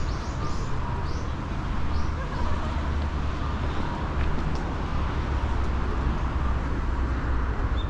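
Steady outdoor traffic rumble, with a small bird chirping repeatedly, short high falling notes, in the first couple of seconds.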